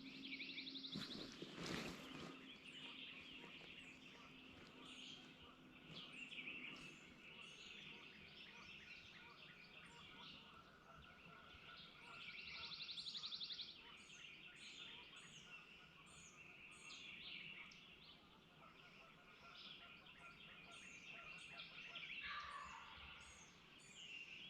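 Quiet spring woodland birdsong: many small birds chirping, with a fast, dry trill heard twice, once at the start and again about thirteen seconds in. A faint steady low hum, like a distant motor, fades out after the first several seconds.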